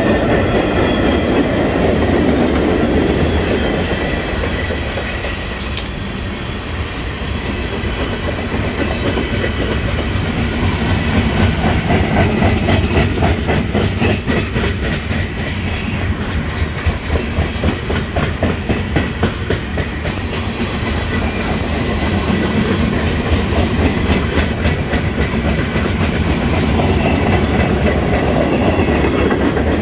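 Loaded freight train cars, including tank cars, rolling past close by: a continuous rumble and rattle of steel wheels on rail. Around the middle comes a fast run of rhythmic clickety-clack as the wheels cross rail joints.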